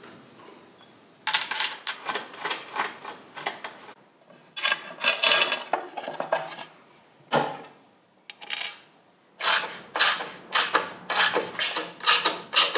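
Hand tools and metal exhaust parts clinking and clicking in bursts, ending in a run of evenly spaced clicks about three a second, as motorcycle exhaust clamps and mounts are worked on.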